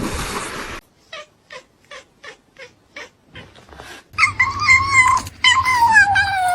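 Domestic cat yowling: a long, wavering cry from about four seconds in that slowly falls in pitch. Before it comes a run of short, evenly spaced sounds, about two or three a second.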